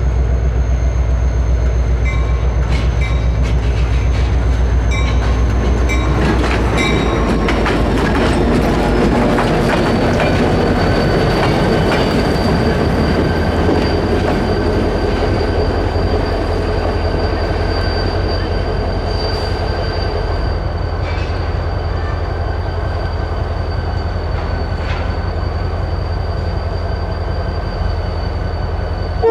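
Diesel-hauled train rolling past: a heavy engine rumble that eases after about six seconds, wheels clicking over rail joints, and a thin high wheel squeal that slides a little lower around seven to ten seconds in.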